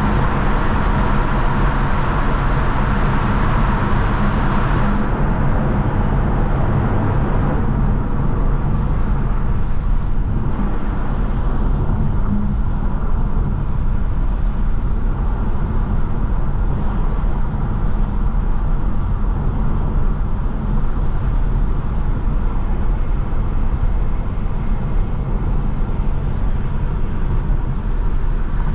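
Mercedes-AMG C43 cruising steadily: a low, even engine and exhaust drone under tyre and road noise. The higher hiss of the road noise eases off about five seconds in.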